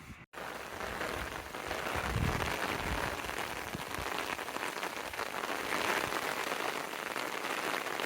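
Heavy downpour of rain, a dense steady hiss of drops hitting surfaces, with a few low rumbles a couple of seconds in.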